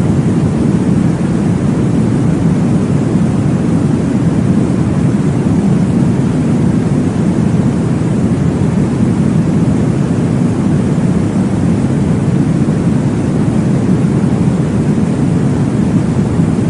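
Steady, low whooshing noise from a baby-sleep sound track, even and unbroken, with most of its weight in the low range, like a recreated womb sound.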